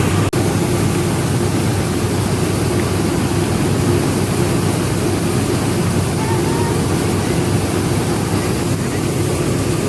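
Rice milling machine running with a steady, loud mechanical drone, cut off for an instant just after the start.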